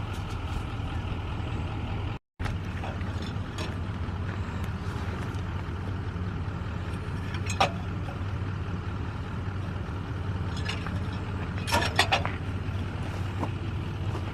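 Farm machine's engine running steadily, a low even drone, with a few short sharp squeaks or rattles about two-thirds of the way through and again near the end; the sound cuts out for a moment about two seconds in.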